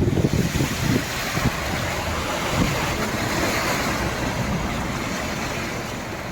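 Flood water rushing and splashing across a flooded road in a long wash that swells over the first few seconds and then slowly fades. Wind rumbles on the microphone in the first second.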